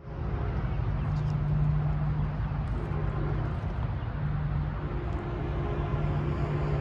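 Train running by: a steady low rumble with a droning hum that fades in and out.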